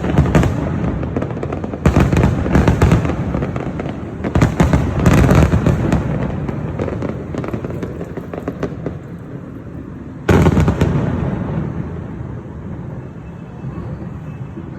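Aerial fireworks bursting in loud volleys, several sharp bangs at a time with crackling, each volley trailing off in a long rumbling echo; a last big volley comes about ten seconds in.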